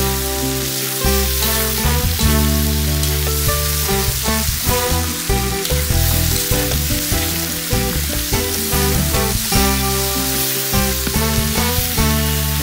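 Onions and diced meat sizzling as they fry in a kazan, stirred with a slotted spoon, under background music with a bass line.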